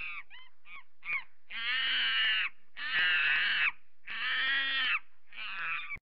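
Monkey calling: three short falling cries, then four longer harsh calls of about a second each, the last one shorter.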